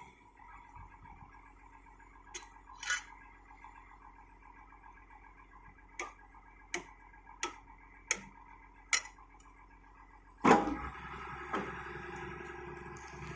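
Liugong 921DI excavator's engine running with a steady drone, with sharp knocks at irregular intervals. The loudest knock comes about ten seconds in, and the engine grows louder after it.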